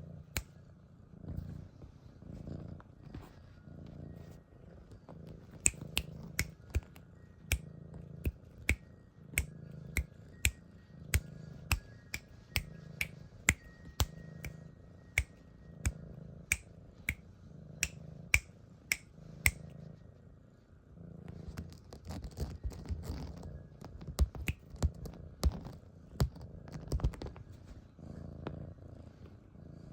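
Siamese kitten purring, a low rhythmic rumble that swells and fades with each breath. From about 6 to 20 seconds, sharp clicks sound over it about twice a second.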